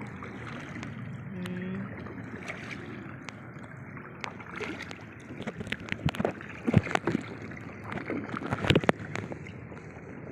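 Water sloshing and splashing around a sea kayak as it is paddled. Several sharp knocks and splashes come between about four and nine seconds in, the loudest near the end.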